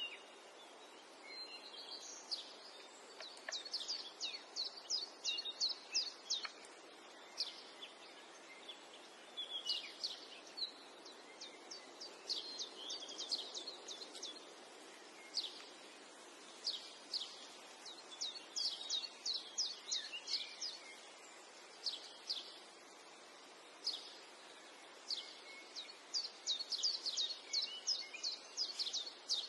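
Small birds chirping in quick runs of short, high, falling chirps, coming in clusters every second or two over a steady background hiss.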